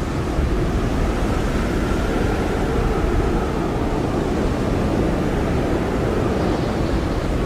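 Blizzard wind blowing hard and steadily: a dense rushing noise with a deep rumble underneath and a faint howling whistle that slowly drifts in pitch.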